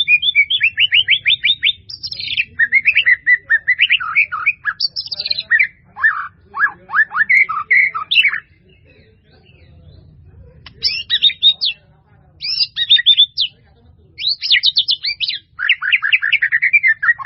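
A bird chirping close by in rapid runs of short, high notes, in several bursts separated by pauses.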